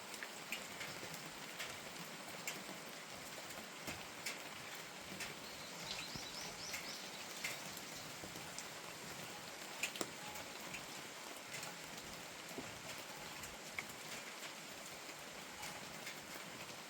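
Steady rain falling on a rural farm hut, with scattered sharp drip ticks. About six seconds in, a bird gives a brief run of about five quick, high chirps.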